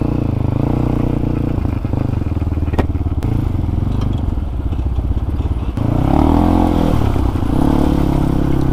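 Motorcycle engine running steadily, its pitch rising and falling about six seconds in and again near the end as it revs.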